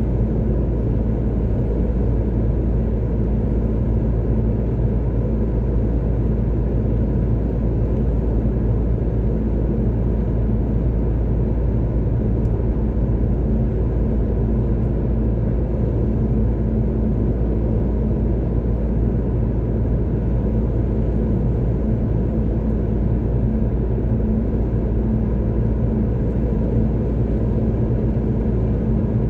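Car driving along a motorway: a steady low rumble of road and engine noise with a constant hum.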